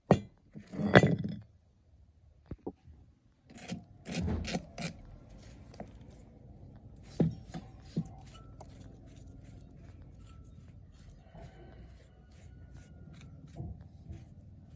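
Small hard objects, most likely tools and metal engine parts, being handled on a work surface: a louder scrape about a second in, then a run of light clicks, clinks and scrapes.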